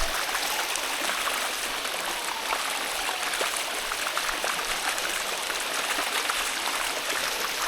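Water running over rocks in a stream or cascade: a steady, even rushing.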